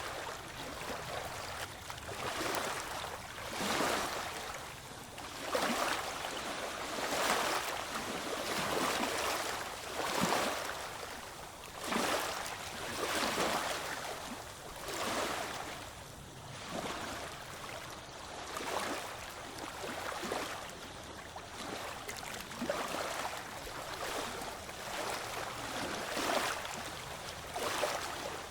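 Small waves lapping and washing in a steady rhythm, one hissing surge about every second and a half.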